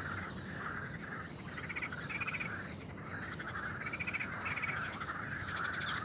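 A chorus of frogs croaking continuously, with bursts of rapid trilled calls, and a bird giving four short falling whistles in the second half.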